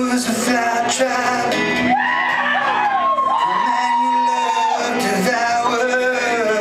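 Live male singing over strummed guitar, with one long held, wavering vocal line in the middle.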